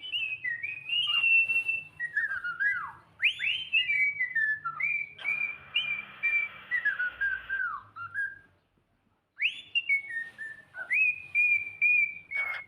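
Cockatiel whistling its song: a string of clear, high whistled notes with quick rising and falling glides, a hissy stretch under the notes in the middle, a short pause, then more whistling.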